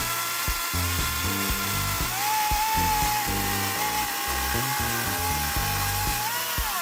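Narion 42V brushless cordless chainsaw cutting through a log about 15 cm thick: its motor whine drops in pitch about two seconds in as the chain bites into the wood, holds under load, then rises briefly as it cuts through and stops near the end. Background music plays underneath.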